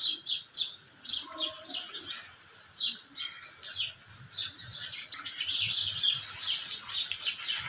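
Small birds chirping busily, many short high chirps overlapping in a steady chorus that grows busier in the second half.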